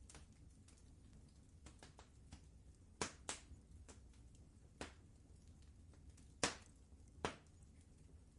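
Fireplace fire crackling: scattered faint pops over a low steady rumble, with five sharper, louder pops from about three seconds in.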